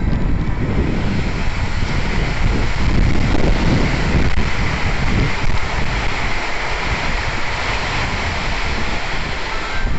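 Strong gusty wind buffeting the microphone, with a steady rush of heavy rain.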